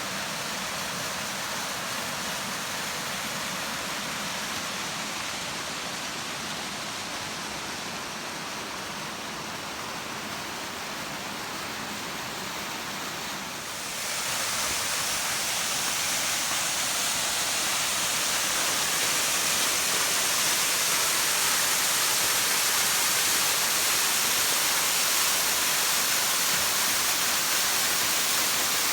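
Waterfall pouring, a steady rush of falling water. About halfway through it gets abruptly louder and more hissy, and stays that way.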